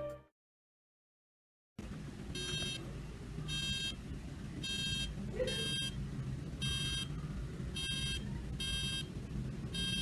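Noise detector's electronic alarm beeping about once a second after a quiet start, each beep short and buzzy: the alarm set off by a loud noise.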